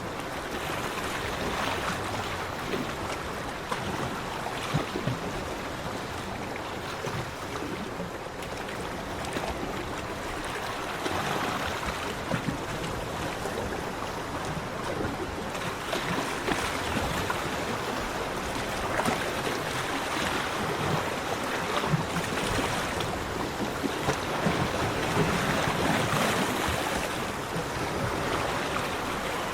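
Ocean waves washing onto a beach: a continuous surf hiss that swells and eases every few seconds.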